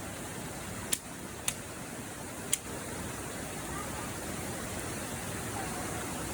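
Campfire burning with a steady hiss, and three sharp pops from the wood about one, one and a half, and two and a half seconds in.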